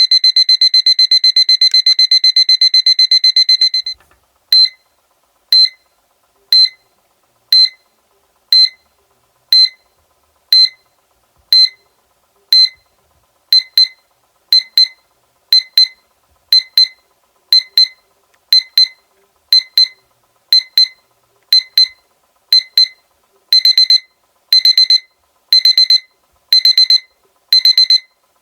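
Seiko electronic alarm clock beeping a high-pitched alarm. Rapid continuous beeping stops about four seconds in, and the alarm restarts as single beeps once a second, changes to pairs of beeps about halfway, and to longer bursts near the end, the pattern growing denser as it goes.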